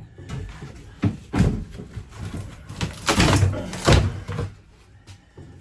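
Knocks and bangs of RV interior fittings being handled and pulled loose during a teardown: sharp knocks about a second in, then a longer clattering scrape with two bangs around three to four seconds in.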